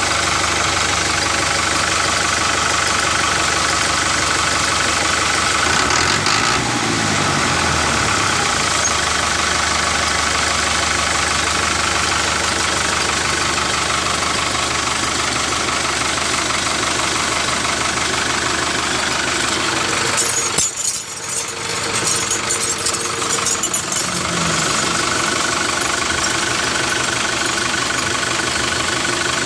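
A motor running steadily with an engine-like rumble, dipping briefly about two-thirds of the way through.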